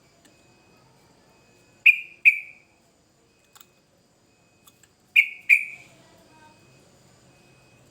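Yellow-vented bulbul (trucukan) giving loud, sharp whistled call notes in two quick pairs, the second pair about three seconds after the first.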